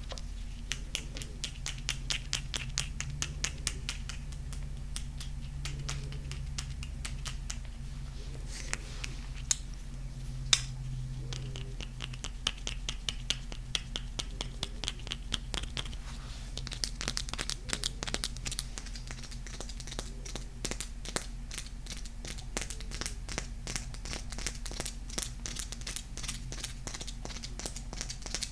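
Close-up tapping and scratching on golden crystal stones: fast, dense clicks with scratchy rubbing, and a couple of sharper taps about ten seconds in. A steady low hum runs underneath.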